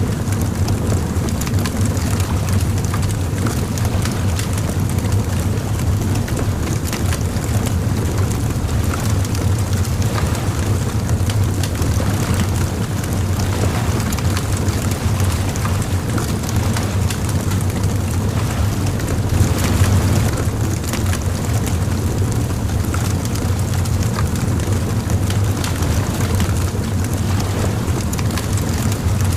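Bonfire crackling with many small irregular pops and snaps over a steady low rumble, with a slightly louder burst of crackling about twenty seconds in.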